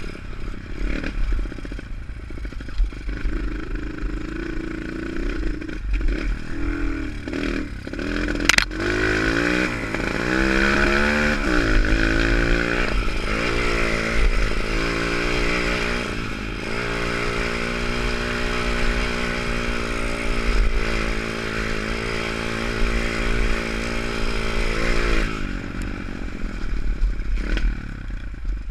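Pit bike's small single-cylinder engine revving up and down under the throttle, then holding a steady note for several seconds before cutting off about three-quarters of the way through. There is one sharp knock just before the revving starts, and a low rumble runs throughout.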